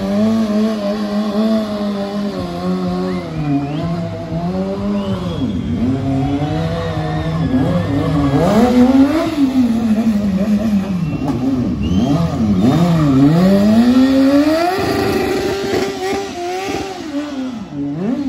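BMW S1000R's inline-four engine revving hard, its pitch swinging up and down repeatedly as the bike is held in a drift, with some tyre squeal.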